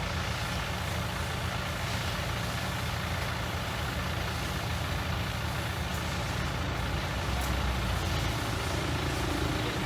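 Heavy diesel engine of construction machinery running steadily with a low rumble, growing a little louder near the end.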